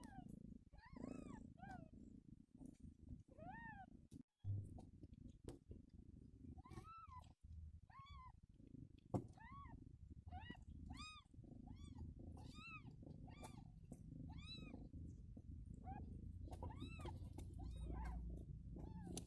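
Newborn kittens mewing: thin, high squeaks, each rising and falling in pitch, repeated irregularly and more often in the second half. A low steady rumble lies underneath.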